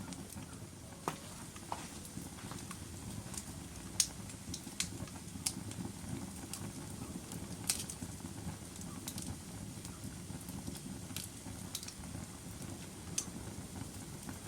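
Burning logs in a fireplace: a steady low rumble of flames with sharp crackles and pops at irregular moments, every second or two, the loudest about four seconds in.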